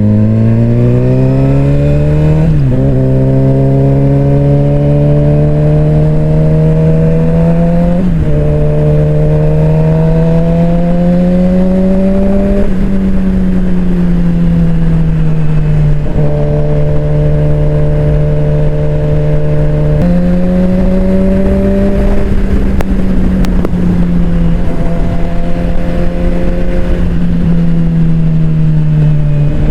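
Suzuki GSX-R600 inline-four engine under way. Its pitch climbs and drops twice in the first eight seconds as it is shifted up through the gears. It then eases off, holds steady, and steps back up as the speed changes.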